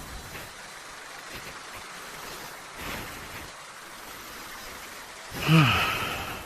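Steady road and wind noise on a motorcycle ride through slow traffic. About five seconds in, a loud pitched sound from a nearby vehicle whose pitch falls as it fades over about a second.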